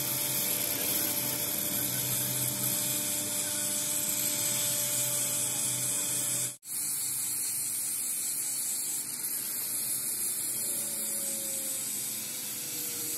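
Small handheld power tool running steadily with a whirring hiss, stopping for a moment about halfway through before running on.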